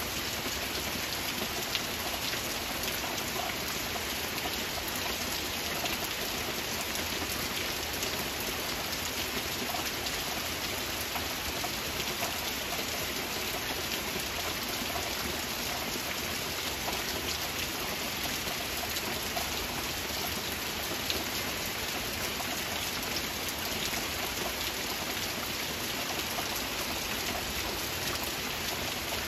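Steady rain falling: an even, unbroken hiss made up of countless small drop impacts.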